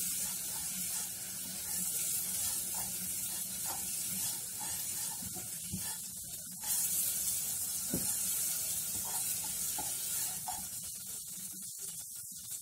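Vermicelli sizzling as it fries in melted butter in a saucepan, stirred and turned with a slotted spatula; this is the browning stage, frying until light brown.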